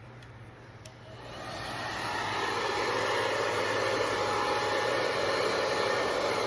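Wavytalk hair dryer switched on at its low heat setting: a click, then the blower's rush of air builds up over about a second and runs on steadily.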